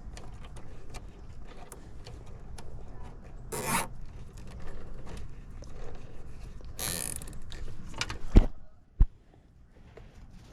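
Handling of tools and gear: scattered small clicks and rubbing, two short hissing sweeps, and two sharp knocks near the end.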